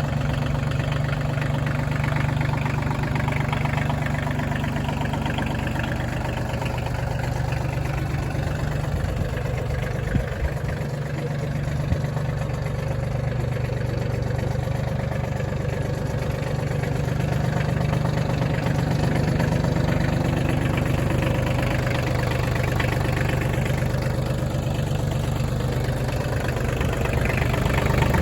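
Kioti CX2510 compact tractor's three-cylinder diesel engine idling steadily, with two brief knocks about ten and twelve seconds in.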